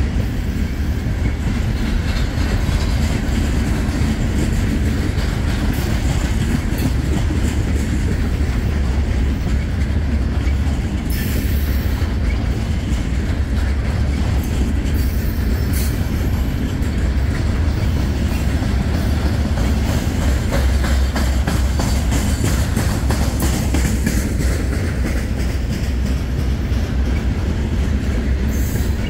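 Loaded open-top hopper cars of a stone freight train rolling steadily past: a continuous heavy rumble with the clickety-clack of wheels over the rail joints. Brief high-pitched wheel squeals break in a few times.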